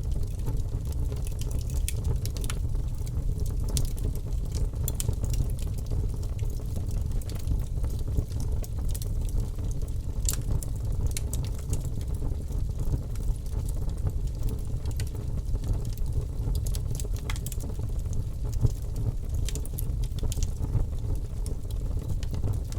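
Logs burning in a wood fireplace, crackling with frequent sharp pops over a steady low rumble of the flames.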